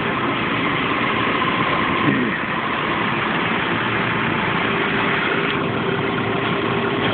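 A 1998 Chevy Blazer's 4.3-litre V6 idling steadily with the freshly recharged AC compressor engaged, a faint steady whine running through the engine noise.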